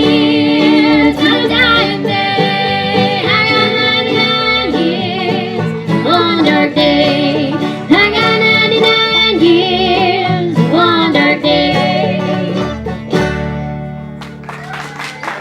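Bluegrass band playing the end of a song on banjo and guitar, with voices holding the last notes. The music winds down near the end.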